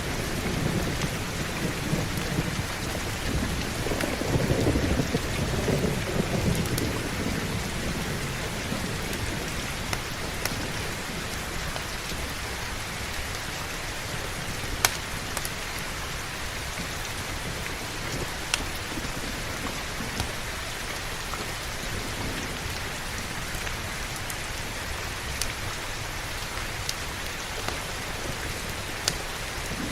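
Heavy rain falling steadily, with a low rolling rumble of thunder over the first several seconds that fades away. A few sharp pops stand out now and then.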